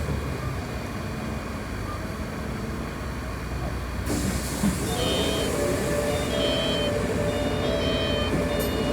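City bus running, heard from inside the cabin: a steady low rumble, then about four seconds in a hiss comes up, followed by a whine that rises in pitch and several steady high tones.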